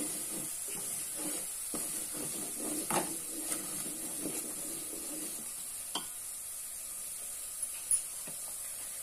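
Ginger-garlic masala paste sizzling in hot oil in a metal pot, with a steady hiss, as a spatula stirs and scrapes through it. The spatula knocks against the pot a few times, most clearly about three and six seconds in.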